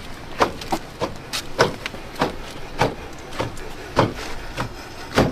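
Jeep engine knocking: hard, uneven knocks about three a second, like a drumline. It is the knock the owner heard after the engine lost all its coolant, which he takes to mean the engine is done.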